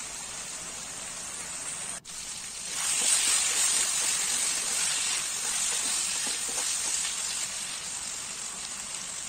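Potatoes, cauliflower and peas sizzling as they are fried in oily masala in a kadai, at the bhuna stage before water is added. After a brief break about two seconds in, the sizzle gets louder as a spatula stirs the vegetables.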